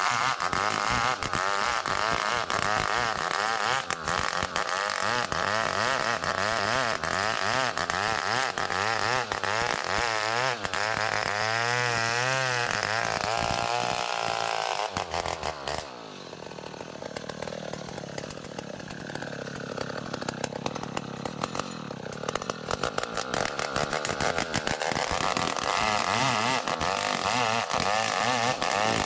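Two-stroke chainsaw running hard while sawing ulin (Borneo ironwood) lengthwise into a beam. The engine pitch wavers up and down around the middle, drops back and gets quieter a little past halfway, then builds up again near the end.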